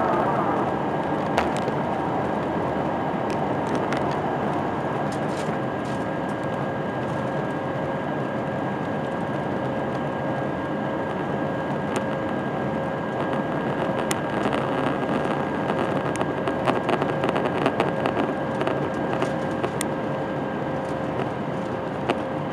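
Cabin noise of an Airbus A320-232 in flight: its IAE V2500 turbofan engines and the rushing airflow make a steady roar, with two steady whining tones over it. The noise eases slightly in the first few seconds, then holds level.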